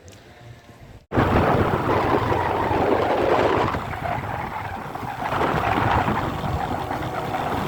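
Wind rushing over the microphone with a motorcycle running, as if riding. It starts abruptly about a second in and rises and falls in loudness.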